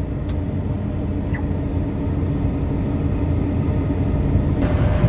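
Farm tractor engine running steadily, heard from inside the cab as a low drone; near the end the sound turns brighter and a little louder.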